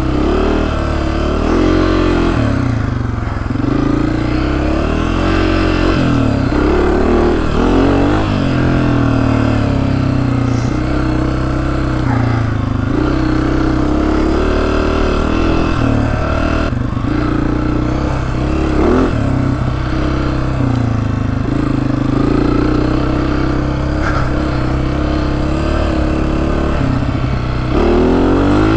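The single-cylinder four-stroke engine of a 2024 Honda CRF250F dirt bike under way on a trail, the revs rising and falling again and again as the throttle is opened and closed.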